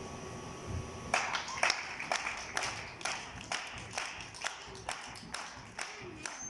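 Hands clapping in a steady rhythm, about two claps a second, starting about a second in: spectators clapping along in time at a sea lion show.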